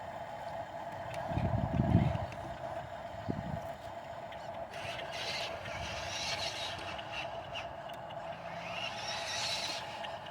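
Mercedes-Benz dump truck engine running steadily, with a heavy low thump about two seconds in and a lighter one a second later, then stretches of hissing, scraping noise.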